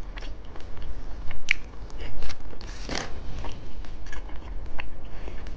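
Close-miked eating: a person biting and chewing a snack, with irregular short clicks and crunchy mouth sounds.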